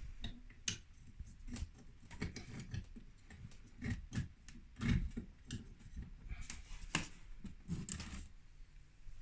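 Irregular light clicks and knocks of small parts being handled while a replacement bulb is fitted into an electric fireplace.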